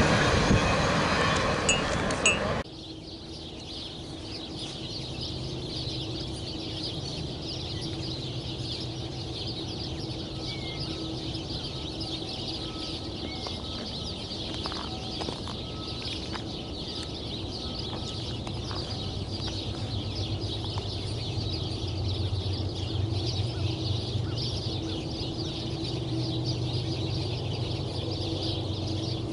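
A train passing close by, its wheels and cars loud, cut off abruptly about two and a half seconds in. Then a quieter steady background: a low hum and rumble that slowly grows louder toward the end, and a high steady hiss.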